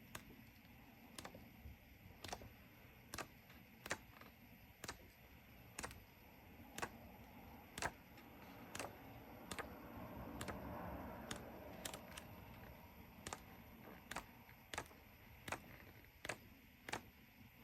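Pages of a 6x6 patterned paper pad being turned one by one, a short crisp flick of paper about once a second, with a longer soft rustle around the middle.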